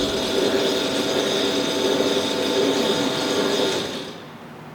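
Powered table-lift drive of a Paoloni PS 630 planer, an electric motor and gearing running steadily with a whine, then winding down and stopping about four seconds in.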